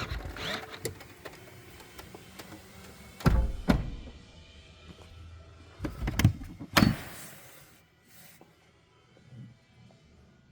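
Car body sounds: an electric motor runs, as of a power window, and there are thuds, two about three and a half seconds in and a few more between about six and seven seconds.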